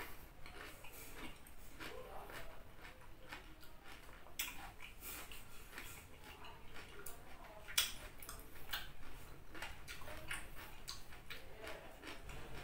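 Close-up crunching and chewing of raw vegetables: irregular crisp crunches, several a second, with one sharper crunch about eight seconds in.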